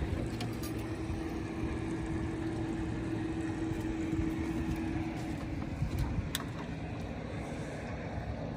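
Boat motor running steadily at slow trolling speed, a low rumble with a steady hum, and a brief click about six seconds in.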